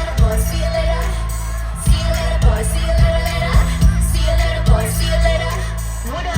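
Loud live pop music over concert speakers: a sung vocal line over a heavy, steady bass and beat.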